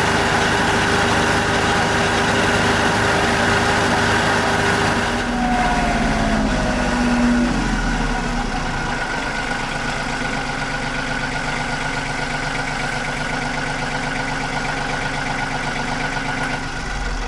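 RK 37 compact tractor's engine running at working speed, then throttled down about five seconds in, its pitch falling over a couple of seconds and settling into a steady idle.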